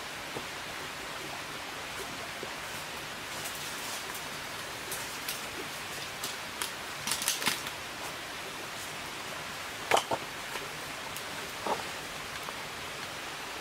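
A steady rushing hiss with scattered clicks and knocks over it: a small flurry a little past halfway and the loudest knock about ten seconds in.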